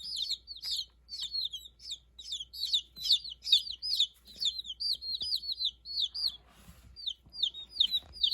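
A brood of one-week-old Jersey Giant chicks peeping continuously, many short, high, falling peeps several a second overlapping one another. A brief rustle comes about two-thirds of the way through.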